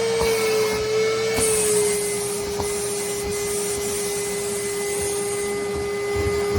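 A vacuum motor runs steadily with a constant whine and air rush as it sucks lint, its pitch dropping slightly about a second and a half in.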